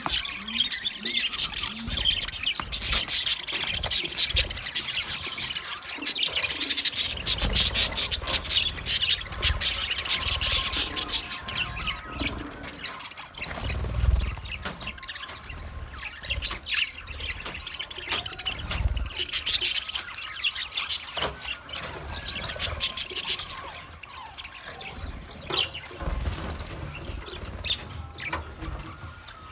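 A group of Australian parrots chattering in quick, dense chirps, busiest in the first third and again about two-thirds of the way through, with a few low thuds in between.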